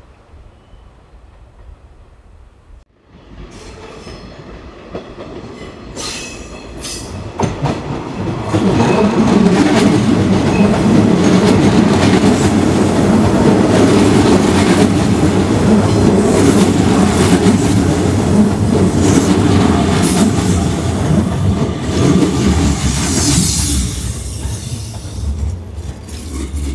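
Hanshin Railway electric train running past, building up over several seconds into a loud steady rumble with wheels clicking over rail joints, then fading. Near the end a brief high wheel squeal sounds.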